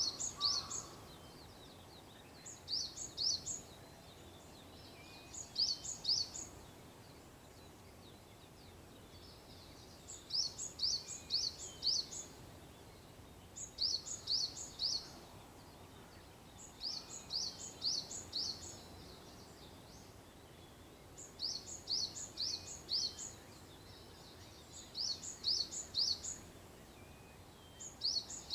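A small songbird repeating a short, high phrase of four or five quick notes every three to four seconds, over a steady background hiss of outdoor noise.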